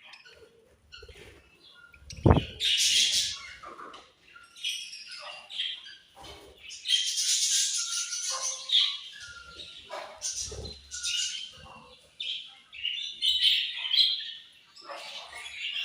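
A group of budgerigars chirping and warbling continuously, many short calls overlapping. A sharp thump about two seconds in is the loudest sound, with a few softer thuds later.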